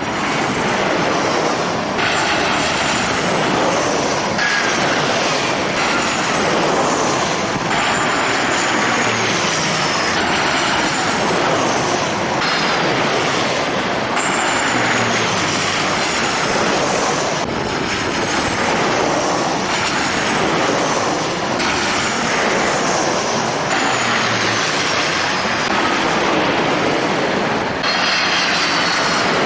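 Jet airliner engine noise, a loud steady rush with high whines sliding down in pitch over and over.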